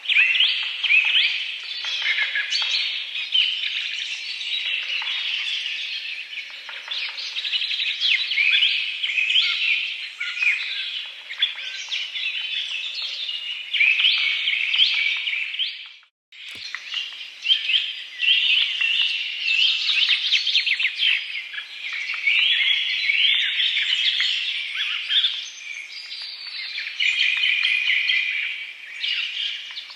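Many birds chirping and calling together in a dense, continuous chorus of short high notes. The sound cuts out for a moment about halfway through, then the chorus resumes.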